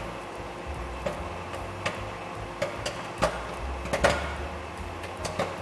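Microwave popcorn (butterfly kernels) popping inside its paper bag: scattered sharp pops, about one or two a second and irregular, as the kernels begin to burst. Under them runs the microwave oven's steady hum.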